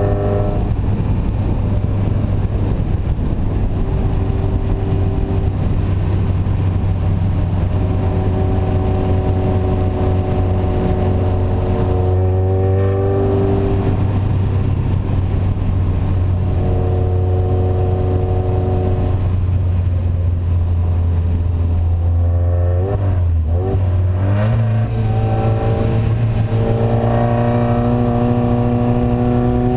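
Engine of a vehicle with an open, unsilenced exhaust running loud and steady under way. About 23 seconds in its pitch wavers and dips, then it settles into a higher, steady note.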